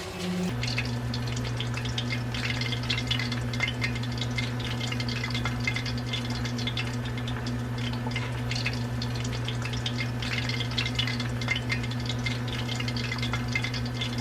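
Boneless chicken pieces deep-frying in hot oil, a dense steady crackle that starts about half a second in, over a steady low hum.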